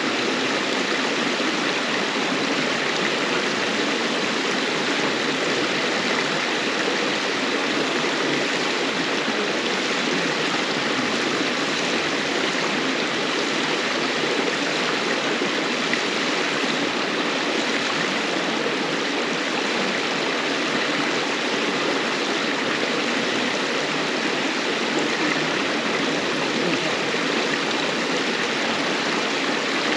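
A river babbling and rushing steadily over stones.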